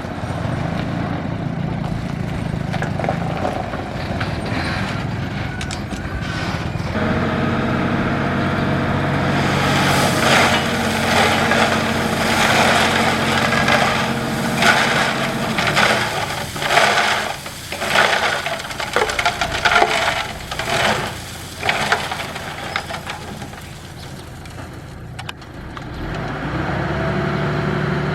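Bulldozer's diesel engine running under load, its note stepping up about seven seconds in, while the blade pushes gravel in loud, uneven scraping and crunching surges for about twelve seconds. The engine eases off briefly, then picks up again near the end.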